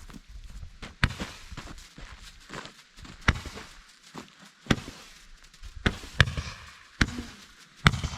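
Consumer strobe firework going off: a string of sharp cracks about one to two seconds apart, starting about a second in, with crackle between them.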